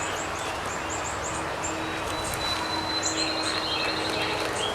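A small bird chirps over and over, quick high notes about three a second, with a higher trill in the second half. Beneath it runs a steady low hum from honey bees flying around an opened hive.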